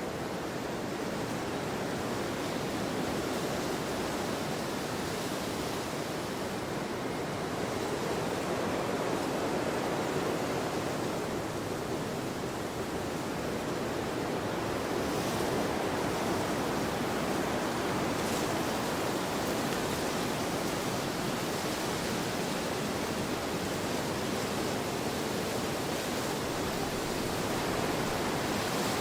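Steady wind blowing in a field: a continuous rushing noise that swells a little now and then.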